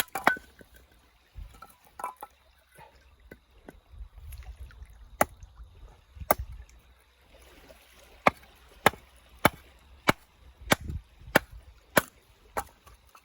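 Chopping: a series of sharp knocks from a blade striking, irregular at first and settling into a steady pace of about two strokes a second in the second half.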